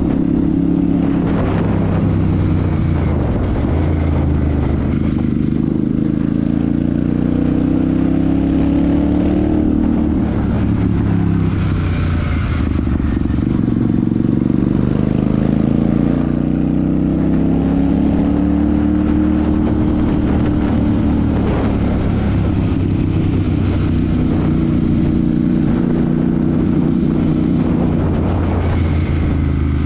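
Royal Enfield Super Meteor 650's parallel-twin engine and exhaust while riding. The revs climb and fall several times, with sharp drops in pitch between the climbs.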